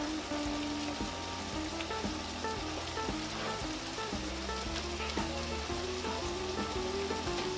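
Ground beef and chopped onions sizzling in a frying pan, a steady crackling hiss with occasional light clicks, over a background melody of short stepped notes.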